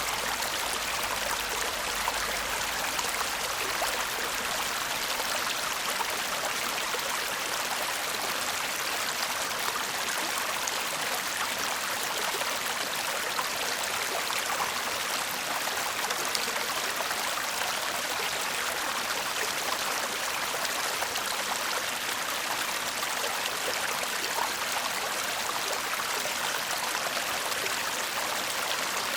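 A shallow stream babbling and murmuring steadily over stones, an even rush of running water with fine splashing and no separate events.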